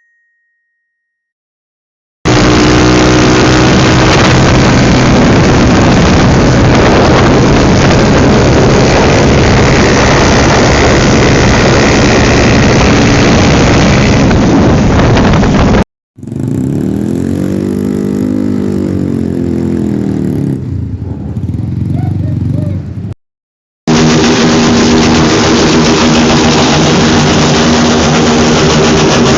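Small-displacement motorcycle engines running very loud close to the microphone, in edited segments separated by short silences. In the middle segment an engine revs up and back down.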